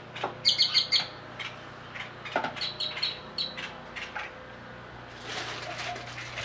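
A bird chirping in two short runs of quick high notes, the first about half a second in and the second around three seconds in, over a faint steady hum.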